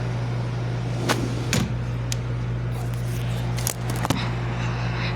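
A steady low hum, with a handful of short sharp clicks and knocks over it.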